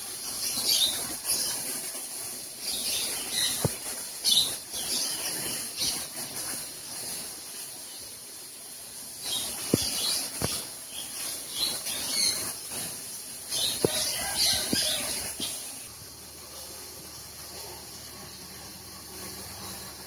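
Small birds chirping in short calls on and off, with a few sharp clicks. The chirping stops about three-quarters of the way through, leaving a quieter steady hiss.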